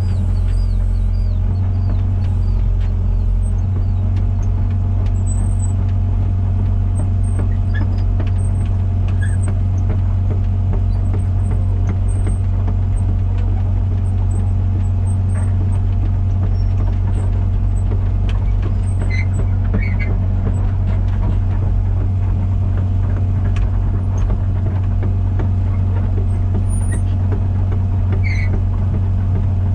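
Komatsu PC120-6 excavator's diesel engine running steadily under the operator's control.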